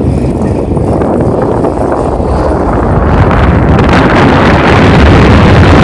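Wind buffeting the microphone of a camera carried on a moving bicycle, a loud rushing rumble that grows louder about halfway through.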